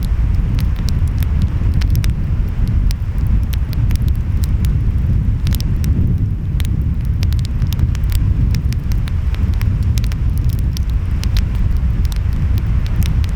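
Wood fire crackling, with many small sharp pops, over a steady low rumble of ocean waves and wind.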